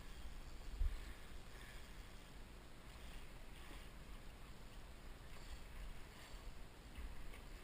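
Faint, steady rush of moving river water, with a few low bumps on the microphone.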